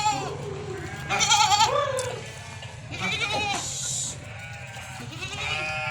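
Goats bleating: several wavering calls a second or two apart, the loudest about a second in.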